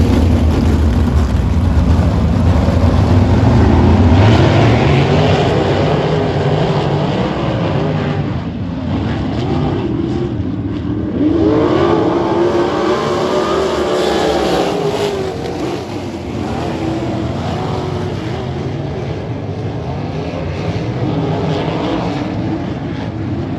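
Sprint cars racing on a dirt oval, their engines running hard at high revs, with engine pitch swinging up and down as cars pass, most clearly about halfway through.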